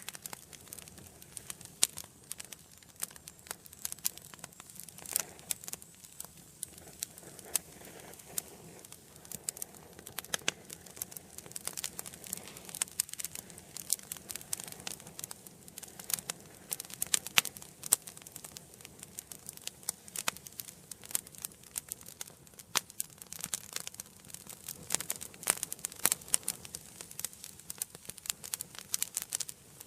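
Wood fire burning in a fireplace, crackling and popping: many sharp irregular snaps over a low steady hiss of the flames.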